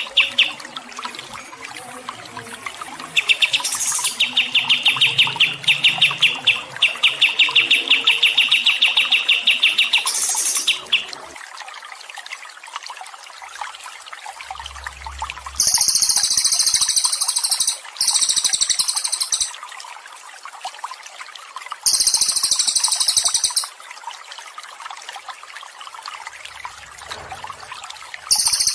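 Recorded songbird song over a steady trickle of water: a fast trill of repeated notes, then several separate very high, shrill, buzzy phrases a few seconds apart.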